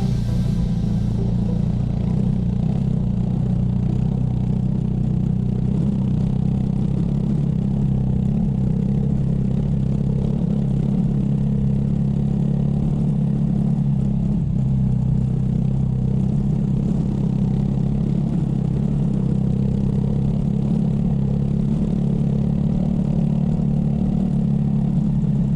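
Motorcycle engine running steadily at an even pitch, with no rises or falls in speed.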